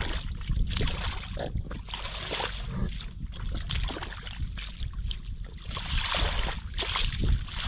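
Water splashing and sloshing in irregular bursts, over a rumble of wind buffeting the microphone.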